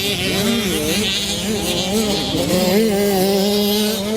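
65cc two-stroke motocross bike engines revving on the track, their pitch rising and falling with the throttle, then holding a steady high note in the second half.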